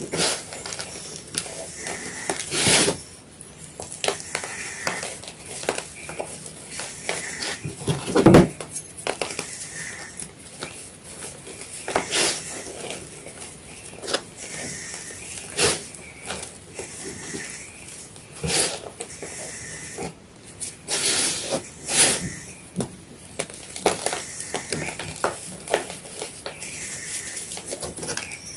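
Fresh white gym chalk being crushed, a steady run of small dry crackles and crumbles with a louder crunch every few seconds.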